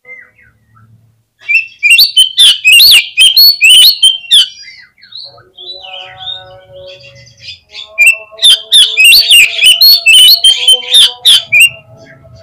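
Oriental magpie-robin (kacer) song on a lure recording: two loud bursts of rapid, varied chirps and whistles, one starting about one and a half seconds in and the other about eight seconds in, with quieter scattered notes between them.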